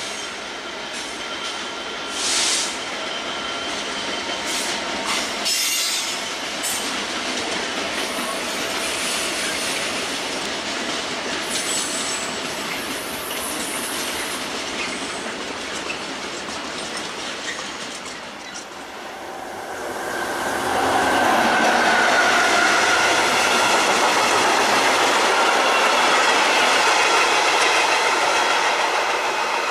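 Open freight wagons rolling past on the rails, wheels squealing in thin steady tones with a few sharp clicks. About twenty seconds in it changes to a louder passing work train of heavy flat wagons: steady wheel-on-rail noise with a ringing squeal.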